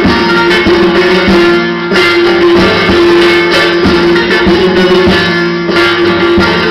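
Instrumental music on plucked string instruments: quick picked notes over a steady held drone note.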